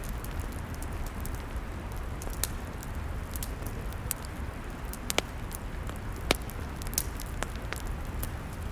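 Log fire burning with a steady low rumble and scattered sharp crackles and pops, two of them louder about five and six seconds in.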